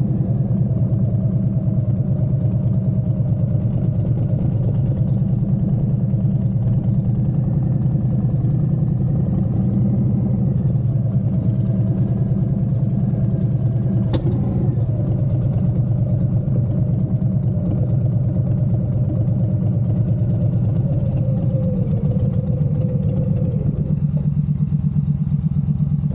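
Motorcycle engine running at a steady pace while riding.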